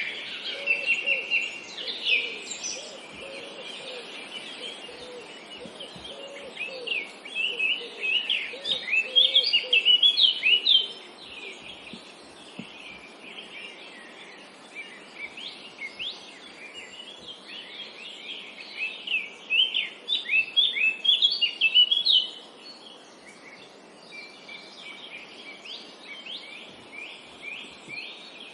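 Several songbirds chirping and trilling in a forest, with bursts of fast, high notes that come in waves, loudest twice, about a third of the way in and again past the middle.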